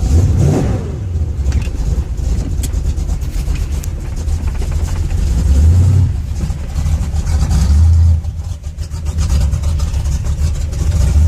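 Cold carbureted truck engine running, started without choke, a steady low rumble that swells louder several times as it is put in reverse and given throttle.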